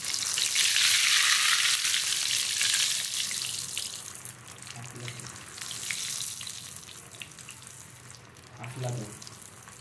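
Vegetable cutlets coated in poha crumbs deep-frying in hot oil, giving a loud, steady sizzle that dies down to a quieter sizzle after about four seconds.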